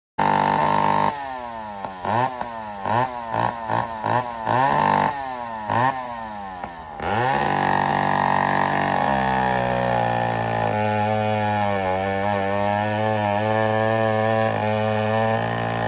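Vintage two-stroke chainsaw blipped through about half a dozen sharp revs, then held at high speed. Its pitch dips and recovers again and again.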